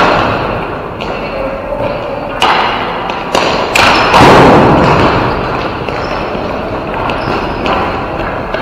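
Ball hockey play: sticks slapping the ball and the ball and players thudding against the rink boards. Several sharp knocks come between about two and four seconds in, then a louder, longer crash just after four seconds.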